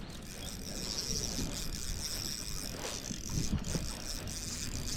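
Fishing reel being cranked steadily, winding in line on a hooked bass.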